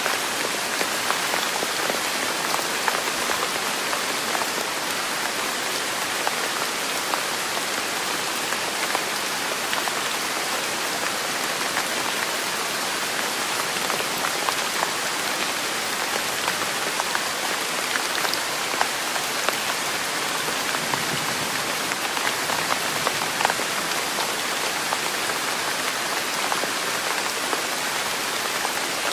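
Steady rain falling on a surface, an even hiss dotted with many small, separate drop taps.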